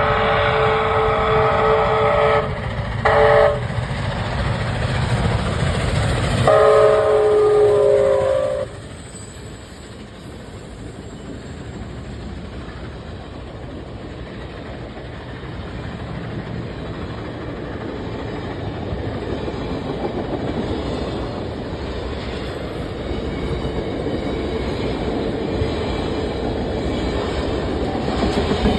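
Canadian Pacific 2816 steam locomotive's whistle blowing for a crossing: a long blast ending about two seconds in, a short blast, then a long blast of about two seconds. After that the train rolls past with a steady rumble and clatter that slowly grows louder.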